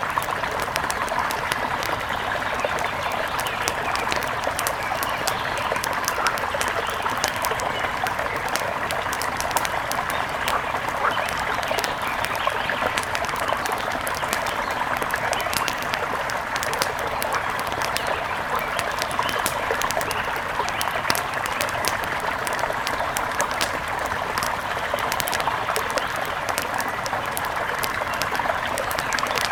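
Wood fire crackling with many sharp little pops and snaps, over a steady rush of river water.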